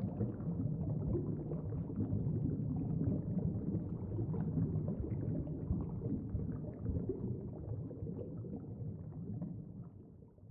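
A low, steady rumble with faint irregular crackling above it, fading out over the last two seconds or so.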